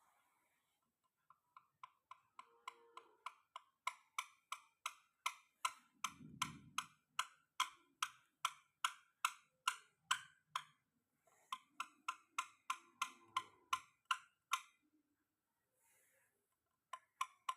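Rhythmic clicking, about three sharp clicks a second, faint at first and then louder, broken by two short pauses.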